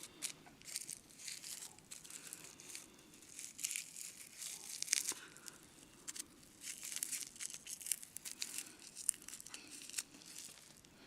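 Irregular crinkling, rustling and tearing of dried tobacco leaf and paper being handled to hand-roll a cigarette.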